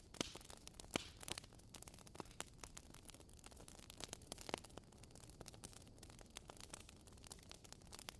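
Faint wood fire crackling: irregular sharp pops and snaps over a soft hiss, with a few louder pops near the start and about halfway through.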